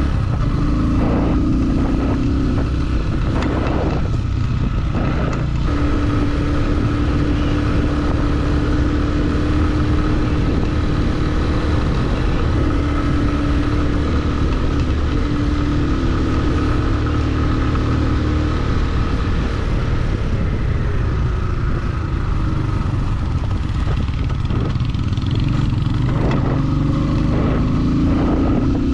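Motorcycle engine running steadily while riding, with heavy wind rumble on the microphone. The engine pitch shifts a few times, and there are a few short knocks near the start and again near the end.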